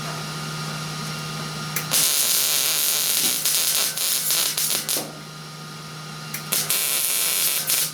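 MIG welder arc crackling and hissing in two bursts, one of about three seconds and a shorter one near the end, laying plug welds through holes in new rocker-panel steel. A steady low hum runs beneath the welding.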